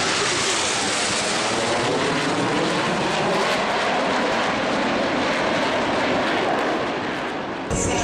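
Blue Angels F/A-18 Hornet jets making a low, fast pass at an air show: a loud, steady jet roar whose tone sweeps as they go by. The roar eases slightly near the end and then cuts off abruptly.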